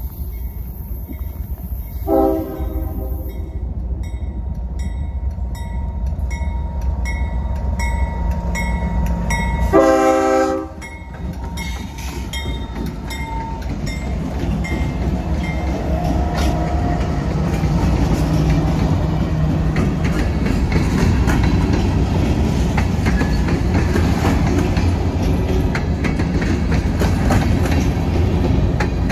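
CSX diesel freight locomotive's air horn giving two short blasts, about 2 and 10 seconds in, the second the loudest. After the horn the train closes in: a deep rumble that keeps growing louder, with the wheels clicking on the rails.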